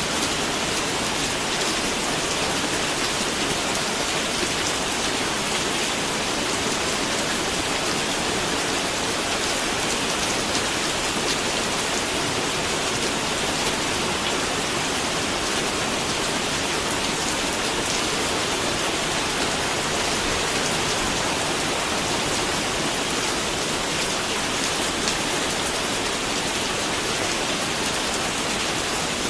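Steady rain falling, a dense even hiss of many small drops striking a surface.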